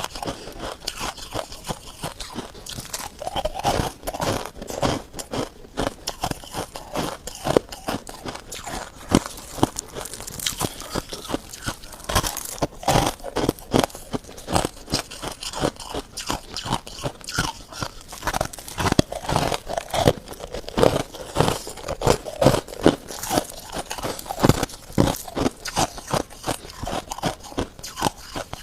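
A person biting and chewing freezer frost, giving many crisp crunches in quick, uneven succession.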